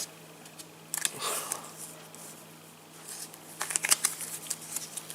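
Match Attax trading cards being handled and leafed through: light rustles and clicks of cards sliding against each other, with a short rustle about a second in and a quick cluster of clicks near the end.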